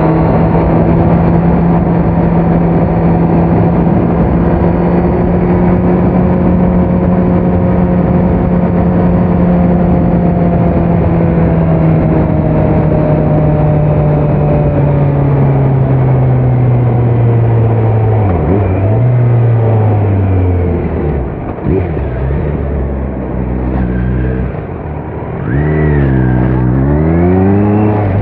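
2018 Kawasaki Z900's inline-four engine through a Leo Vince muffler with no dB killer, on the move. It holds a steady high note for about twelve seconds, then eases off and drops in pitch, with a few short dips and a quieter stretch near the end. A quick dip and rise in revs follows, and it settles to a lower steady note.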